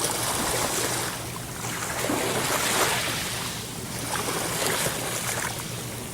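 Sea surf: waves washing in, the rush of water swelling and fading every second or two.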